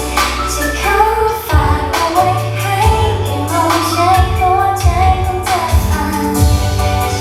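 Thai pop song with a female voice singing over a steady bass and drum beat.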